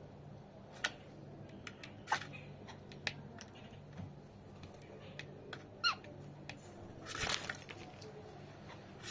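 Birds giving sparse, short chirps and sharp clicks, one or two a second apart, with one falling chirp about two-thirds of the way in and a brief noisier flurry near the end. A faint steady low hum runs underneath.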